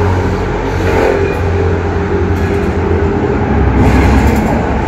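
Steady low rumble of motor vehicle noise, growing a little louder near the end.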